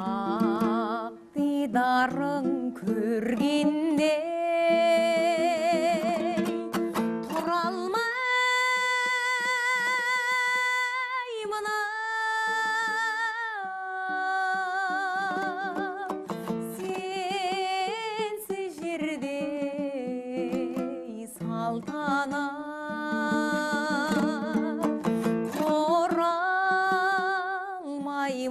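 A song sung with heavy vibrato over a plucked string instrument, the voice holding one long note about a third of the way in.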